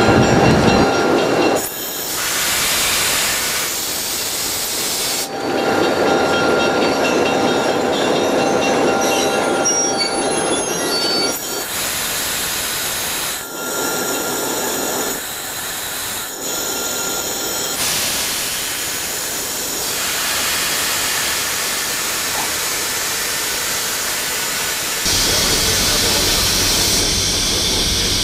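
MLW S-12 diesel switcher and its passenger cars on the move: wheels running on the rails with flange squeal, and a hiss of air at the brake valve. The sound changes abruptly every few seconds, and near the end turns to a louder, lower rumble inside the locomotive cab.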